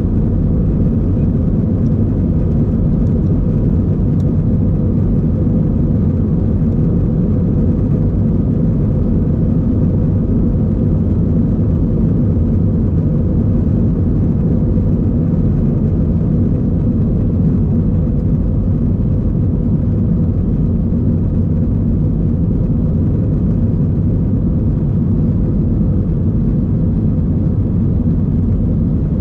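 Steady low roar of jet engines and rushing air inside an Airbus A320's passenger cabin. It holds an even level throughout, with no spool-up or change in pitch.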